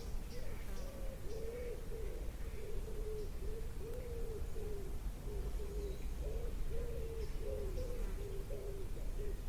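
A bird giving a steady, unbroken series of low calls, with faint high chirps of small birds now and then and a low rumble underneath.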